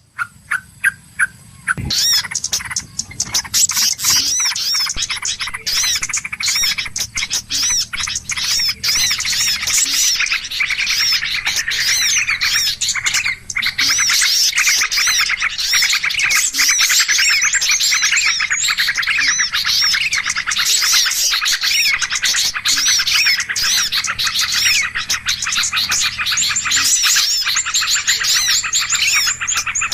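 Bird-lure call recording: many small birds chirping and chattering at once in a dense, noisy chorus. It starts with a few separate calls and thickens into a continuous chorus about two seconds in.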